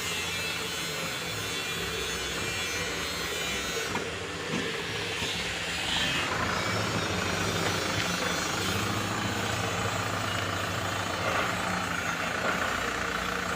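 Mitsubishi Canter HD125 dump truck's diesel engine running steadily under load, growing a little louder about six seconds in.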